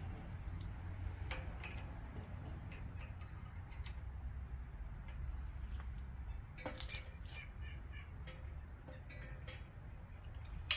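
Light metal clicks and taps over a low steady hum, with a short run of clicks about two-thirds of the way through, as a stock LS roller rocker arm and the press tooling are handled before the old trunnion bearing is pressed out.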